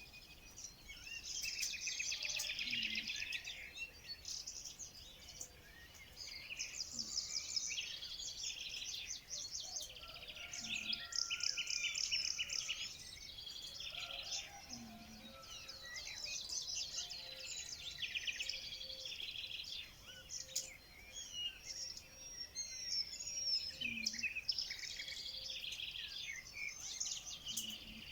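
Several songbirds singing at once, a dense mix of high chirps and fast trills overlapping without pause.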